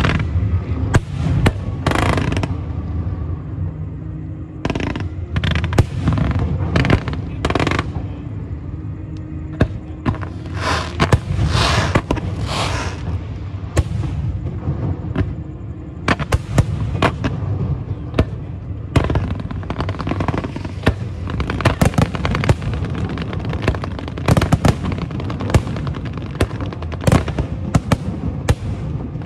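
Aerial fireworks display: many sharp bangs of shells bursting in irregular succession, with stretches of crackling and hissing from the bursts.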